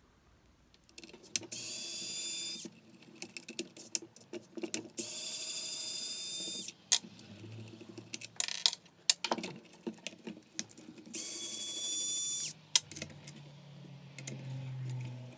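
Electric screwdriver running in three short bursts of high-pitched whine, backing out screws, with clicks and knocks of screws and parts being handled in between.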